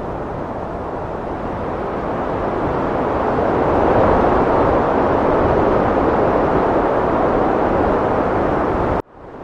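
Heavy wind blowing, a dense rushing noise that swells into a stronger gust about four seconds in. Just before the end it cuts out abruptly for a moment and fades back in.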